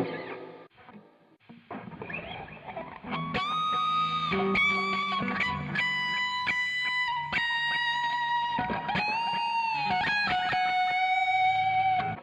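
Epiphone solid-body electric guitar played through an amp: a lead line of single sustained notes with string bends and vibrato. It drops nearly quiet about a second in and picks up from about three seconds.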